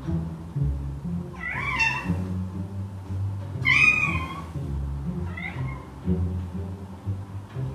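Ginger cat meowing three times at a closed door, asking to be let in; the second meow is the loudest and the third is shorter and fainter. Soft background music plays underneath.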